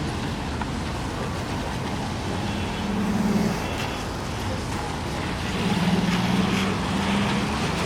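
City street traffic on a wet road: a steady hiss of tyres and rain, with a passing vehicle's engine hum swelling about three seconds in and again around six seconds.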